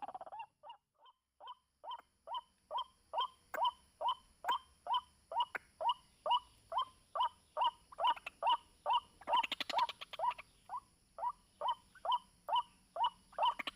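White-breasted waterhen calling: a monotonous series of short, curved 'ruak' notes, about two to three a second. The notes are faint at first and louder and steadier after about two seconds. A brief noisy rustle comes about ten seconds in.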